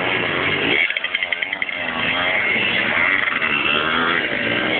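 Motocross bike engines revving, the engine note rising and falling with the throttle. About a second in, the note briefly stutters and drops before picking up again.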